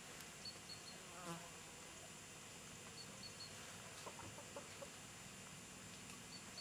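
Faint countryside ambience: a small bird repeats a quick three-note high call about every two and a half seconds. A brief lower call sounds about a second in.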